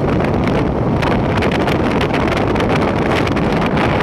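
Steady rush of wind and rolling noise from a Vande Bharat express train running at speed, with wind buffeting the microphone.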